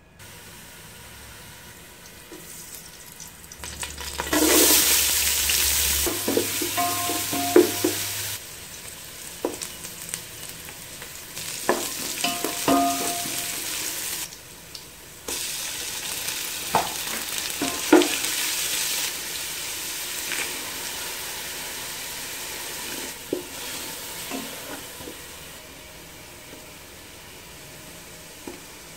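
Onions and spice pastes frying in hot oil in a metal pot, a steady sizzle that surges loudly about four seconds in, with a few sharp knocks of a spoon stirring against the pot.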